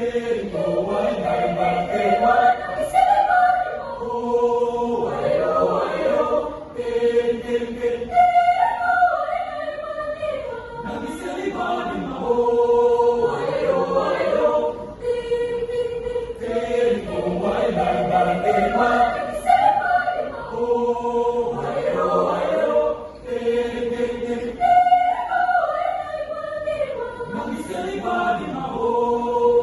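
A high school choir singing: several voices in sustained, flowing phrases.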